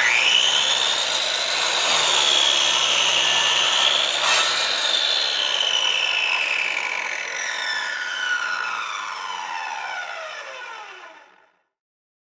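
Electric saw switched on, its motor whine rising quickly and running at speed for about five seconds with a short click partway through. It is then switched off and winds down, the whine falling steadily in pitch until it stops.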